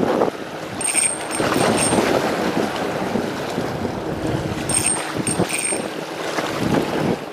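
Strong wind buffeting the microphone over the wash of sea waves, rising and falling in gusts.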